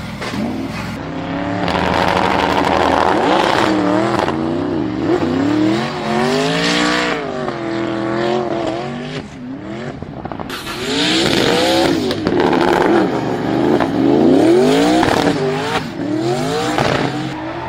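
A modified car's engine revving hard, its pitch climbing and dropping again and again.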